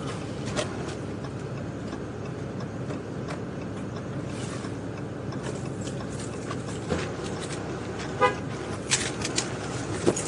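Steady rumble inside a vehicle, with scattered clicks and knocks, and one short horn-like toot about eight seconds in.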